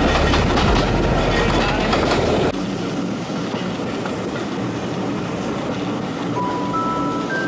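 Steam-hauled train carriages running along the track, heard from the train: a loud rumble and rattle with the clickety-clack of the wheels. About two and a half seconds in it drops suddenly to a quieter, steady running noise, and near the end a few bell-like notes of background music begin.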